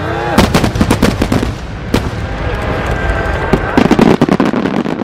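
Large No. 10 (ten-inch) aerial firework shells bursting. A rapid run of sharp bangs starts about half a second in, a single bang comes near two seconds, and a dense cluster of bangs and crackles follows near the end.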